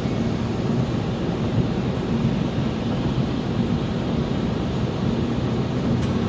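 Steady road and engine noise of a car being driven, heard from inside the cabin, with a constant low hum under it.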